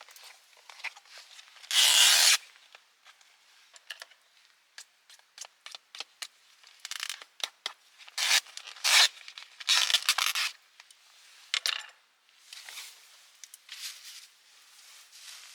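Packaging being torn and rustled in short bursts, one near the start and a cluster past the middle, with small clicks and knocks of handling in between.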